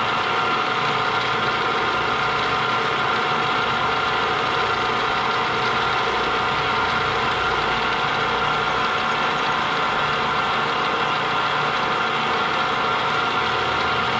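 Small milling machine running steadily, its motor and drive giving an even hum with several steady tones.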